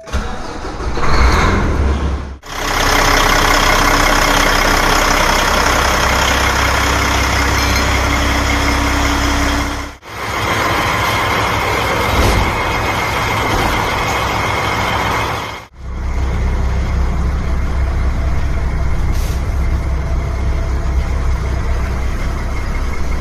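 Kenworth T700's diesel engine running steadily at idle, a low hum under a wide, steady hiss, cut off for a moment three times.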